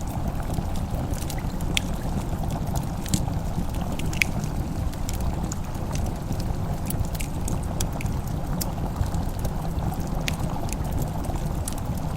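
Fireplace crackling: scattered sharp pops and snaps at irregular intervals over a steady low rumble.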